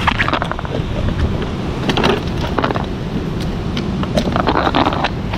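Strong storm wind buffeting the microphone, a loud rumbling rush that surges in gusts every second or two.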